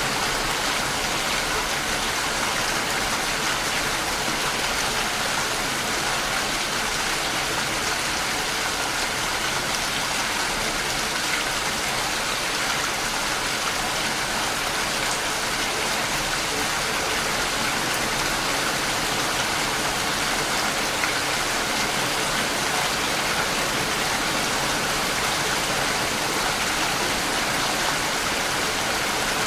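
Steady rain falling on the outside of a house: an even, unbroken hiss with no distinct drops or thunder standing out.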